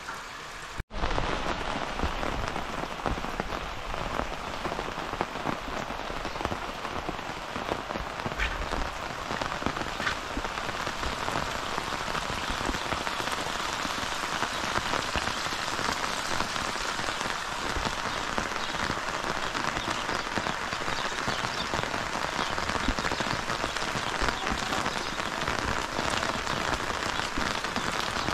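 Heavy rain falling steadily: a dense, even patter of drops with scattered louder drips, cutting in abruptly just under a second in.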